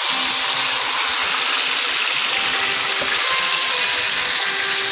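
Marinated chicken pieces sizzling loudly in hot oil as they go into the pan, a steady hiss of frying.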